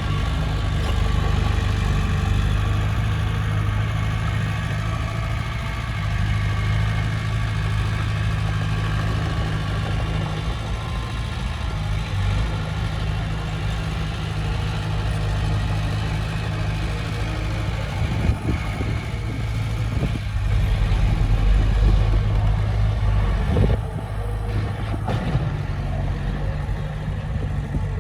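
Heavy earthmoving machine's diesel engine running steadily with a deep hum, with a few clunks and a brief rise in level in the last third.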